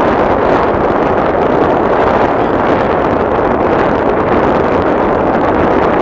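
Wind buffeting the camera's microphone, a loud steady rushing noise.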